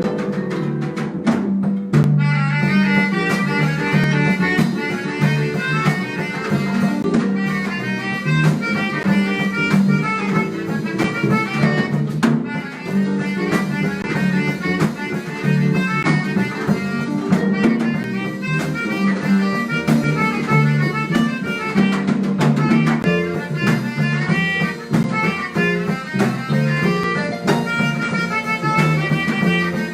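Live harp-jazz band playing a fast instrumental passage of a Brazilian choro, a busy run of quick melody notes over a steady bass line.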